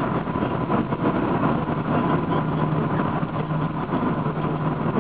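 Steady engine and road noise of a Honda car heard from inside the cabin while it drives along, a constant low hum.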